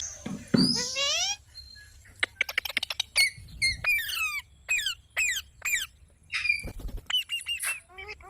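Green parrot calling: a string of shrill chirps and squawks, with a quick run of rapid chirps about two seconds in.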